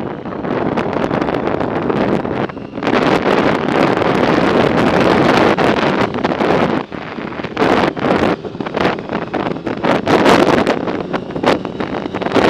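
Wind buffeting the microphone on a moving bike, a loud rushing noise that swells and eases in gusts and drops briefly about two-thirds of the way through.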